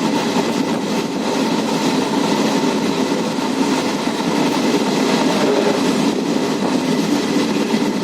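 Passenger train running along the track: the steady, loud running noise of the moving carriage and its wheels on the rails.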